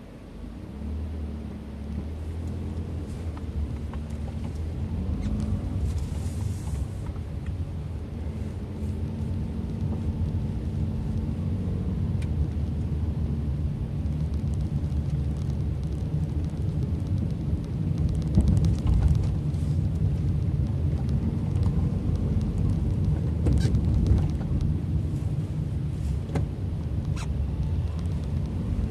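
Car engine and tyre rumble heard from inside the cabin while driving, getting louder over the first couple of seconds as the car gathers speed, then running steadily. A few sharp clicks or knocks come in the second half.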